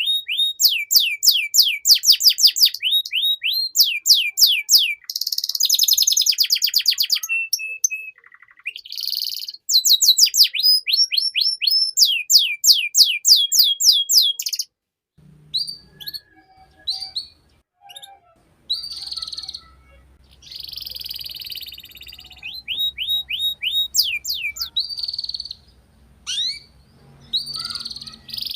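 Domestic canary singing a long song of fast trills: quick runs of repeated downward-sweeping notes alternating with buzzy rolls. About halfway through, the phrases become shorter and more broken, with a faint low hum underneath.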